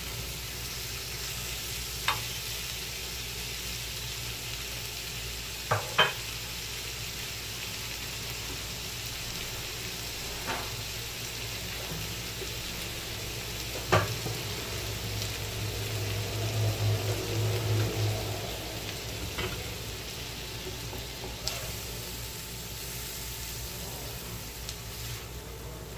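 Mutton liver frying on a tawa griddle with a steady sizzle, while a spatula stirs and scrapes it and knocks sharply against the pan now and then, twice in quick succession about six seconds in. A low hum swells for a few seconds past the middle.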